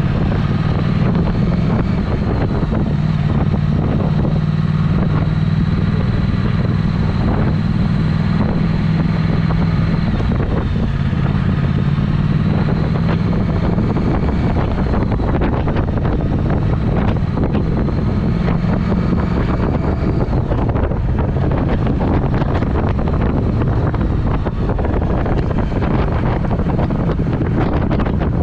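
Triumph Speed Twin's parallel-twin engine running through a Vance & Hines aftermarket exhaust while under way, its note shifting a few times, with wind buffeting the microphone.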